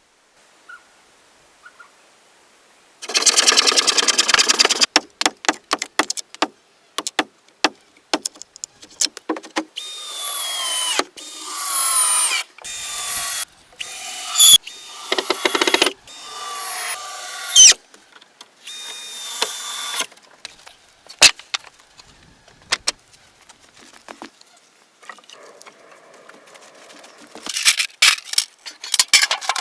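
A power tool, like a drill, running in short stop-start runs, each whine rising in pitch as it spins up, among sharp clicks and knocks of building work.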